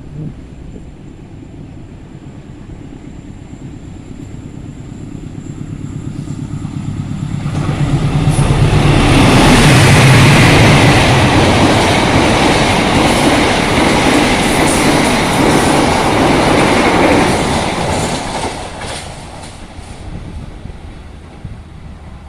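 A fast train passing through a station: it grows louder as it approaches, rushes past with wheel clatter for about ten seconds, then fades away.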